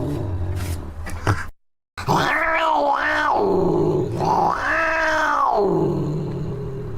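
Angry cat sounds: a low growl, then, after a brief cut to silence, two drawn-out yowls that rise and fall in pitch, the second about a second and a half long.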